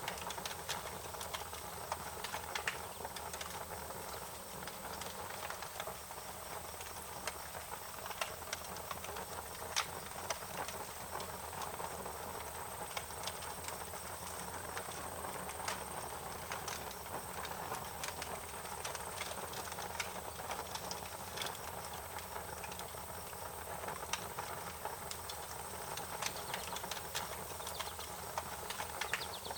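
Wood fire crackling: irregular snaps and pops over a steady hiss.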